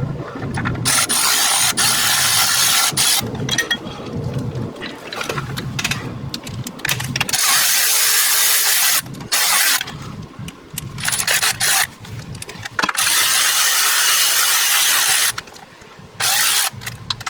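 Hand-held power tool running the new water pump's mounting bolts in to snug. It comes in a series of bursts of one to two seconds each, with short pauses between them.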